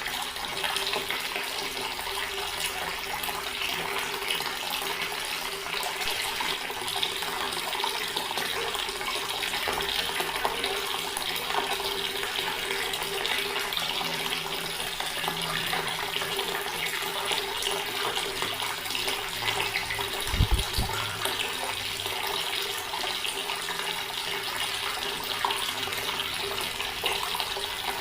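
Water running steadily from a tap into a stone basin, a continuous splashing trickle. A single brief low thump comes about two-thirds of the way through.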